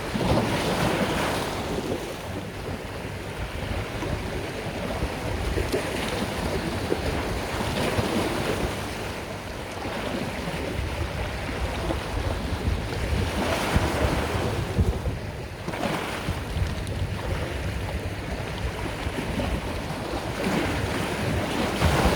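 Sea waves washing onto a shore, swelling and falling back every few seconds, with a low rumble of wind on the microphone.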